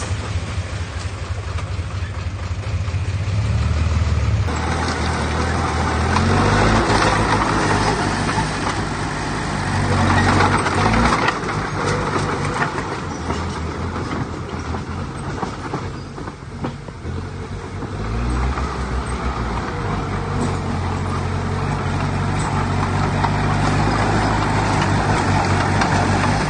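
Heavy diesel engine of earthmoving machinery running under varying load. Its pitch and loudness rise and fall several times as it works, with a lull a little past the middle.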